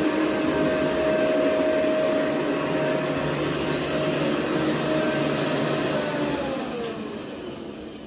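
1972 Eureka 2052 upright vacuum cleaner running with a steady whine, then its motor winding down, the pitch sliding lower and the sound fading over the last couple of seconds.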